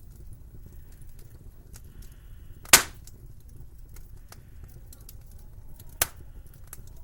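Wood fire crackling in a fireplace: a steady low rumble with scattered small ticks, and two loud sharp pops, about three seconds apart, the first louder.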